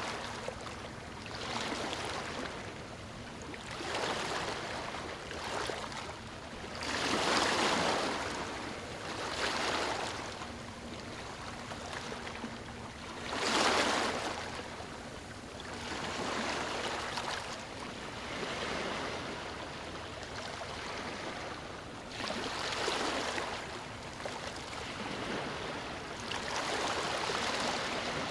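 Ocean waves breaking on a beach: a steady wash of surf that swells with each wave every few seconds, the loudest about halfway through.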